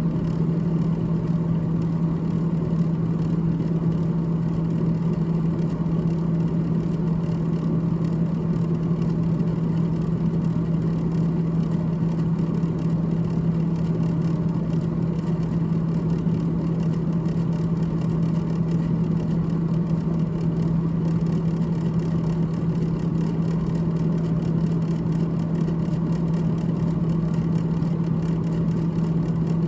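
GE GTH18XCTZRBB refrigerator's freezer fan running, a steady whir with a constant low hum.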